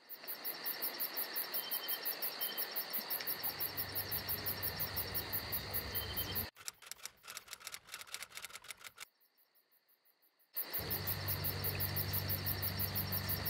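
Insects chirping in an even, fast pulse, about six chirps a second, over a steady high ringing, like a cricket chorus. The chorus breaks up about halfway through and nearly drops out for a couple of seconds, then comes back with a low hum under it.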